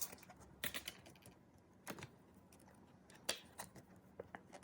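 Faint, irregular light clicks and taps from hands handling album packaging and photocards, about a dozen scattered through the stretch.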